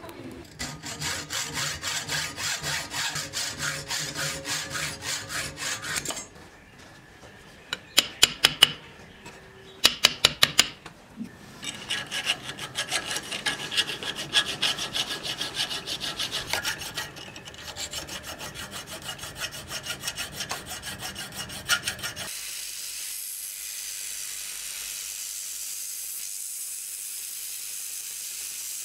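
A hand file scraping a cast metal knife guard held in a vise, in quick, even strokes, broken by a few sharp metal taps about eight and ten seconds in. For the last six seconds or so this gives way to the steady hiss of an abrasive belt grinder sanding the guard.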